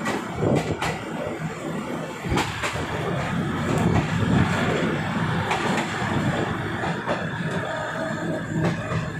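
Passenger train running along the track, heard from on board: a steady rumble with scattered clicks and knocks.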